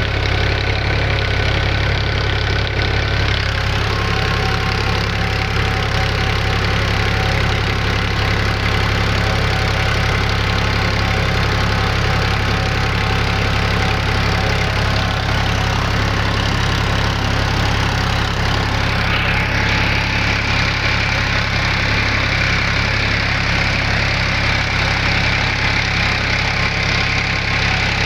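Engine-driven farm machinery running steadily: a constant low engine hum under a dense mechanical clatter. A little past two-thirds of the way through, a higher-pitched hiss joins in and holds.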